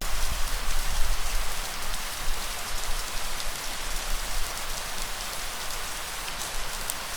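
Steady light rain falling: an even hiss with scattered faint drop ticks, and a low rumble underneath.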